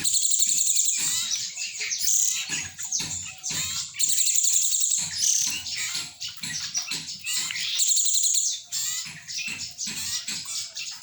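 Cinereous tit (glatik batu) singing: repeated bursts of rapid, high chirping trills about a second long, with shorter varied chirps between them. This is its full, varied song, including the 'celilin' phrase.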